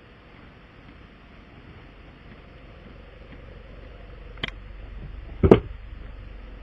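A low steady hum that slowly grows louder, with a sharp click about four and a half seconds in and a louder knock a second later.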